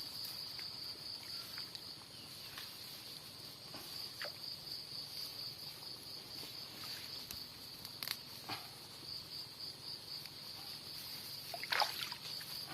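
Insects in the flooded paddy trilling steadily in a high, even drone. A few faint brief splashes of water are heard, the clearest near the end.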